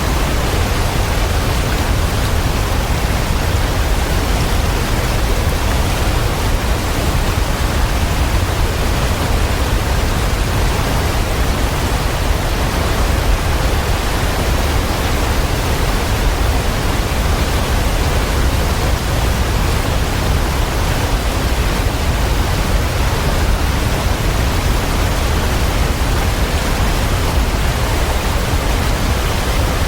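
Waterfall rushing: a steady, unbroken wash of water noise, heaviest in the deep low end, with no changes.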